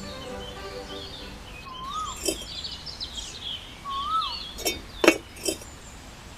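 Birds chirping, with a short rising-and-falling whistle call heard twice, about two seconds apart. Three sharp knocks come near the end, the middle one the loudest.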